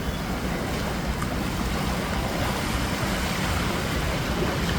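Steady noise of sea waves and surf, with a low rumble underneath.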